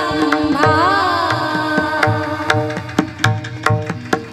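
Marathi devotional kirtan music: a voice carries a sung line over a harmonium's steady held notes for about two seconds, then drum strokes keep the rhythm as the music eases off.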